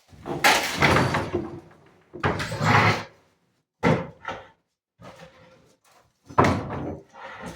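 Renovation work noise: about five loud bursts of banging and scraping, each lasting around a second, with short gaps between them.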